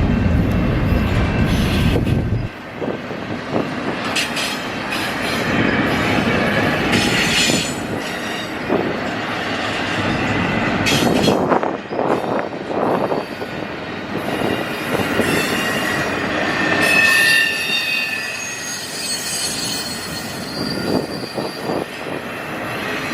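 Railroad cars rolling past on the track, with wheels squealing on the rail, most strongly in a high squeal a little over two-thirds of the way through. A heavy low rumble cuts off suddenly about two and a half seconds in.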